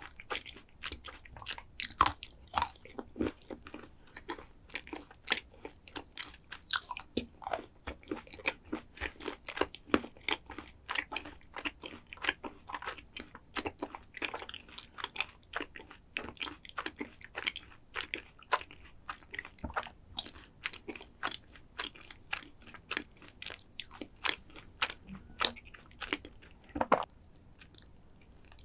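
A person chewing chocolate dessert close to the microphone: a dense, irregular run of crunchy, crackling mouth sounds with frequent bites, thinning out near the end.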